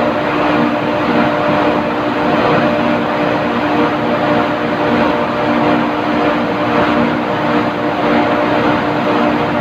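Steady, loud drone of running industrial machinery: constant hum tones under a dense hiss, with no change in speed or pitch.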